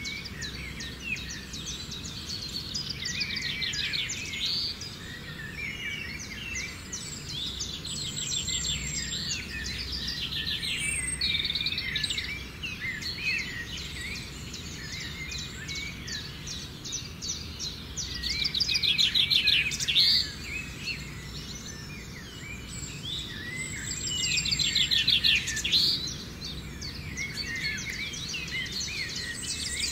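Birds chirping and calling in a forest, many short overlapping calls, with a loud rapid trill three times: a few seconds in, about two-thirds of the way through and again a few seconds later. A faint steady low rumble runs underneath.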